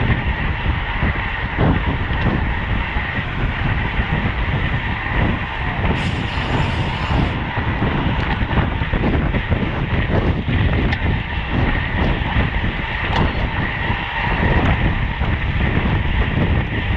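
Wind rushing over the microphone, with road and drivetrain noise from a road bike at racing speed, scattered with small knocks. A brief higher hiss comes about six seconds in.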